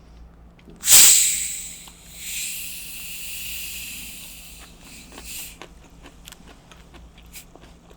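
Sparkling water being opened: a sudden loud hiss of escaping carbonation about a second in that fades quickly, then a second, softer hiss of gas lasting about three seconds, followed by a few small clicks.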